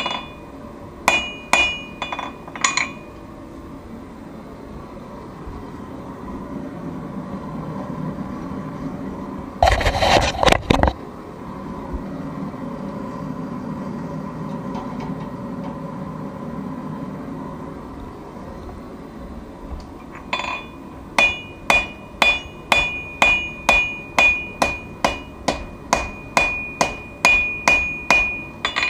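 Forging hammer striking hot steel on an anvil, each blow ringing at the same clear high pitches: a few blows at the start, then after a long pause a fast run of about three blows a second through the last eight seconds. In the pause there is a steady low rush and a brief loud noisy burst about ten seconds in.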